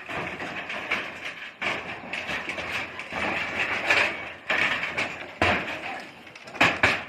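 Hammering and clatter of house-repair work: irregular knocks over a steady noisy background, with a quick cluster of sharp knocks near the end.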